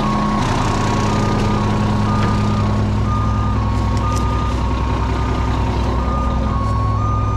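Heavy truck's diesel engine running steadily, picking up slightly about half a second in, with a continuous warning alarm that alternates between two close pitches.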